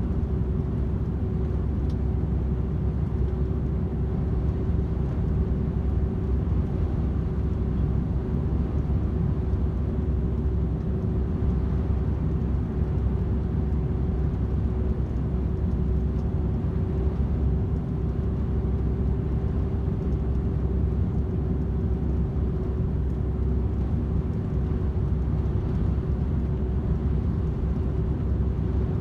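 DAF XF 510 truck cruising steadily on the motorway: a constant low drone of engine and road noise with a steady hum, with no change in speed or gear.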